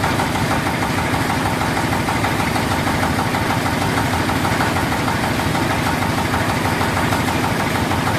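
Several stationary engines running steadily together in an engine house, a dense mechanical clatter with a fast, even beat.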